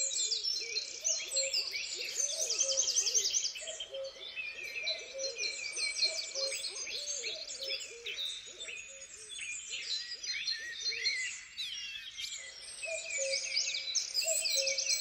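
A dense chorus of songbirds, many overlapping trills and chirps, with a lower call repeated over and over beneath them that breaks off briefly near the end and then resumes.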